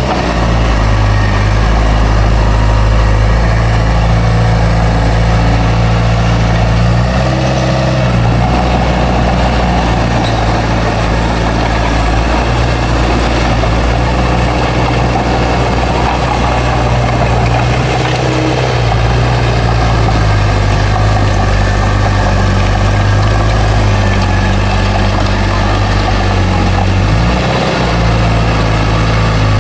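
Bulldozer's diesel engine running steadily under work. Its note shifts briefly three times: about a quarter of the way in, around the middle, and near the end.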